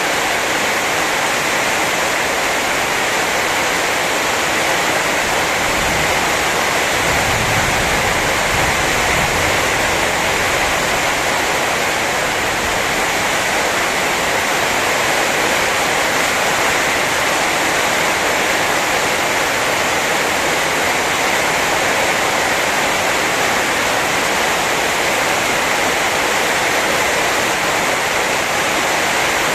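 Heavy rain falling steadily in a rainstorm, an even hiss, with a low rumble for a few seconds about seven seconds in.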